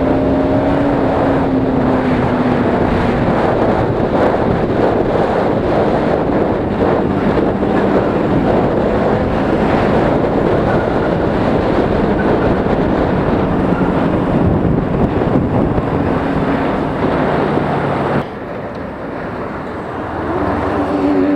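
Bajaj Pulsar RS200 single-cylinder engine running at speed under heavy wind rush on the helmet microphone. The loudness drops suddenly about 18 seconds in, and the engine note climbs again near the end.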